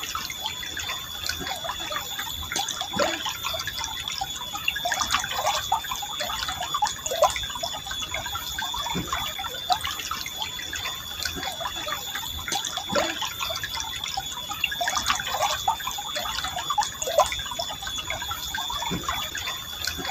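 A forest stream flowing steadily, the water trickling and gurgling with many small bubbling drips and plops.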